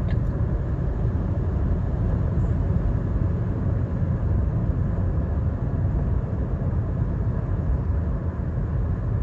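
Steady road and engine rumble of a moving car, heard from inside the cabin, even and unchanging throughout.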